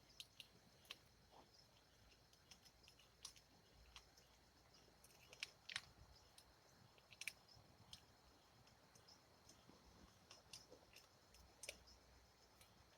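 Near silence with scattered faint clicks and ticks, a few sharper ones about halfway through, over a faint steady high hum.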